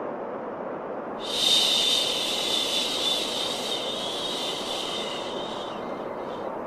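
A long 'shhh' shushing sound for calming a baby, starting about a second in and fading out near the end, over a steady white-noise hiss.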